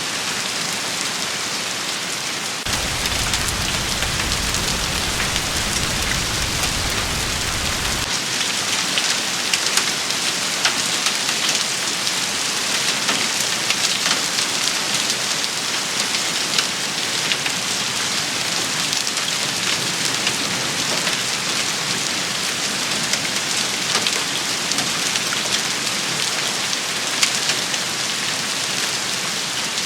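Steady rain shower pattering on a surface, with scattered sharp ticks standing out of the hiss. A low rumble sits under it from about three to eight seconds in.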